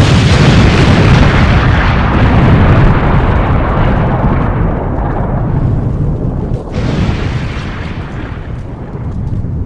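Explosion sound effect: a sudden loud blast that rumbles on and slowly fades, with a second burst about seven seconds in.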